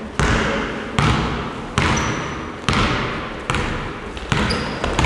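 A basketball being dribbled on a gym floor, about one bounce every 0.8 seconds, six bounces in all, each echoing through the hall. A few short, high squeaks come near the end.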